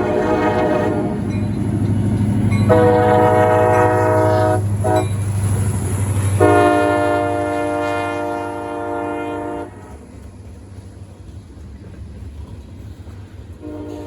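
Diesel freight locomotive's horn sounding the grade-crossing pattern: long, long, short, long, over the low rumble of the locomotive's engine. The rumble drops away about ten seconds in, and another horn blast starts near the end.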